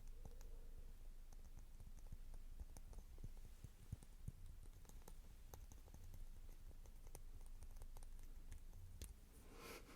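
Light, irregular tapping and clicking on a Princeton Heritage round watercolor brush, held close to the microphone.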